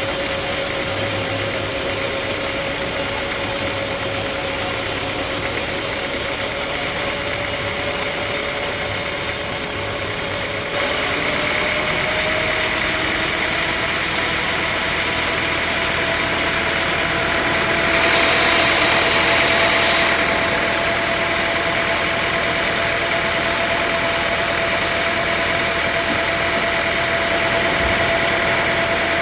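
A sawmill's engine runs steadily. Its pitch steps up a little and it gets louder about a third of the way in. A short hiss comes about two-thirds of the way through.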